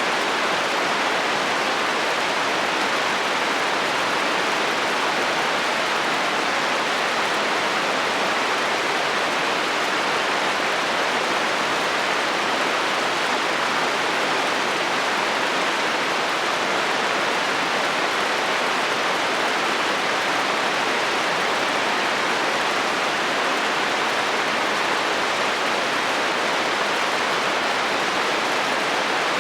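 Heavy rain falling steadily on a metal roof: an even, unbroken hiss with no thunder.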